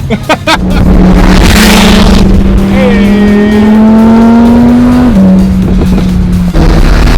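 Sports car engine and exhaust pulling under acceleration, the pitch climbing steadily and then dropping at an upshift about five seconds in. A little before the end the sound breaks into a rougher rush and the pitch starts climbing again.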